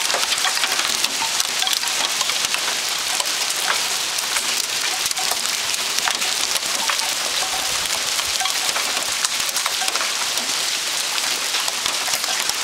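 Heavy hail falling steadily, a dense hiss of many small sharp clicks as hailstones strike hard surfaces.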